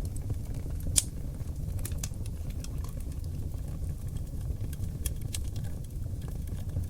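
Wood fire burning on oak logs in a fireplace: a steady low rumble of flames with scattered crackles and one sharp pop about a second in.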